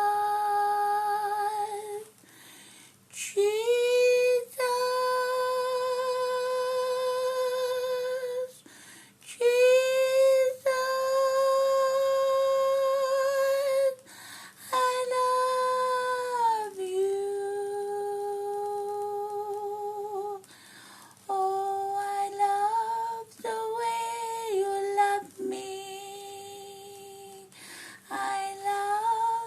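A woman singing a slow song in a high puppet-character voice, holding long drawn-out notes of several seconds each with short breaks between them; the words are hardly audible, so it sounds close to humming.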